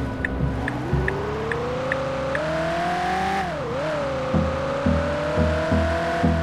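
Car engine accelerating, its pitch climbing steadily and dropping sharply once about three and a half seconds in as at a gear change, then climbing again, over a background music beat.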